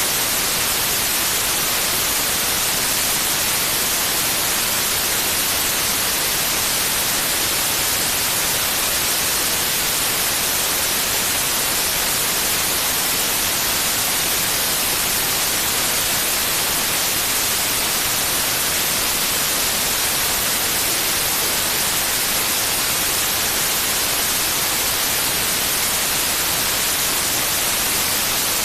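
Steady white noise: an even, unchanging hiss, strongest in the high frequencies, played continuously as a sleep aid.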